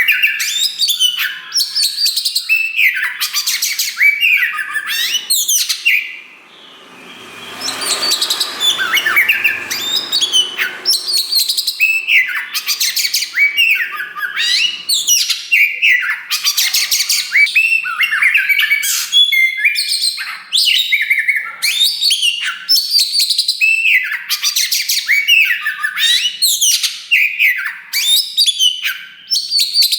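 Oriental magpie-robin of the black 'kacer wulung' form singing loudly and almost without pause: a fast, varied stream of whistles, chirps and trills. A softer, scratchy stretch comes about seven to ten seconds in.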